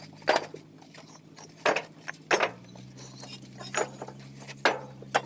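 Bricks clinking sharply against one another at irregular intervals as they are handled and stacked, over the low steady hum of a tractor engine running, which shifts slightly in pitch about two and a half seconds in.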